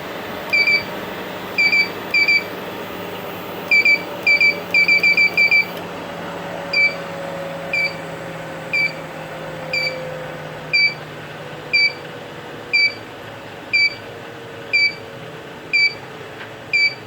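Treadmill control console beeping: a quick irregular run of short electronic beeps, then a single beep about once a second. Under it the treadmill motor hums steadily, with a faint tone that slowly falls in pitch.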